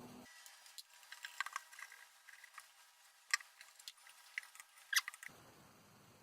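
Faint light clicks and scraping from a stud being twisted loose by hand, gripped through a rubber hose, on a Land Rover 2.25 diesel engine block. There are a few sharper clicks, about a second and a half in, a little past three seconds and near five seconds.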